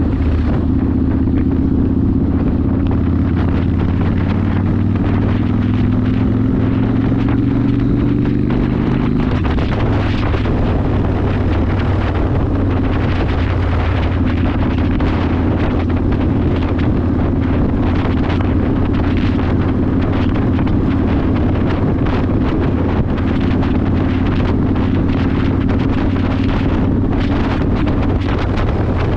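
Yamaha Warrior 1700's V-twin engine running through a custom exhaust while riding, with wind noise on the microphone. The engine pitch climbs slowly for the first nine seconds, drops sharply about nine seconds in, then holds steady.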